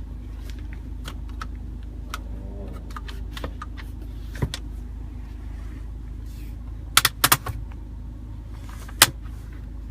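Sharp clicks from the car's cabin fittings being handled: a few light ones, then three close together about seven seconds in and a louder single click near the end, over a steady low hum.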